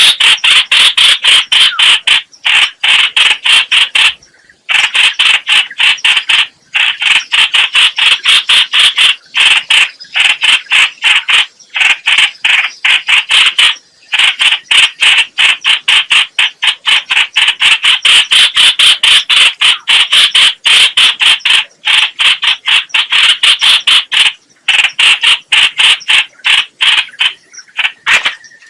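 Trao trảo (hoành hoạch) bird call, a loud, rapid chattering of sharp notes at about five or six a second. It runs in long bouts broken by brief pauses, as played for a decoy bird-trapping recording.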